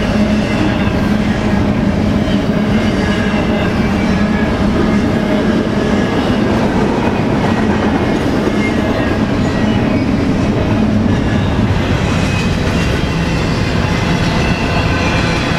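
BNSF freight train cars rolling past close by: a steady, loud roar of steel wheels on rail with a low hum and faint high ringing tones from the wheels.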